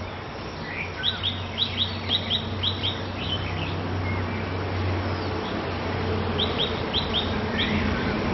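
A songbird calling a quick run of short, high notes that drop in pitch, falling in pairs about four a second, once about a second in and again about six seconds in. A steady low hum runs underneath.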